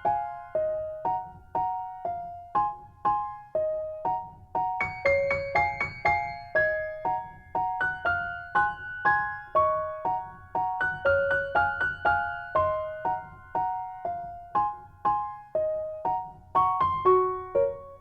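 Background piano music: a simple melody of single struck notes, about two a second, each fading before the next.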